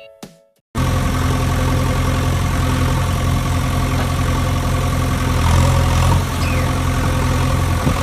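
An engine idling steadily with a low, even hum, starting abruptly about a second in.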